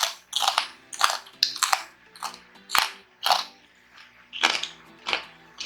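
Close-up crunching of crispy deep-fried pork being chewed, sharp crunches about twice a second with a short pause midway.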